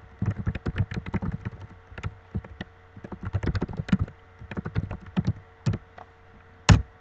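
Rapid, irregular typing on a computer keyboard, with one harder keystroke near the end.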